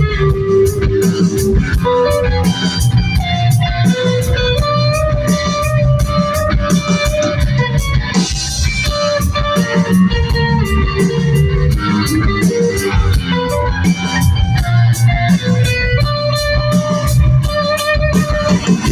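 A rock band playing live: electric guitars, bass guitar and a drum kit in an instrumental passage with a steady beat and no vocals.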